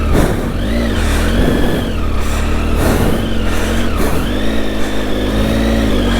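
Triumph Tiger 800's three-cylinder engine revving as the motorcycle rides a trail, its pitch rising and falling several times, then held steady at a higher pitch for about the last two seconds.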